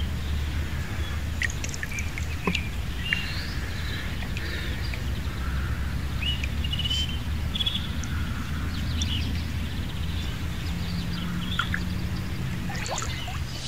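Small birds chirping and calling in short, scattered phrases over a steady low rumble.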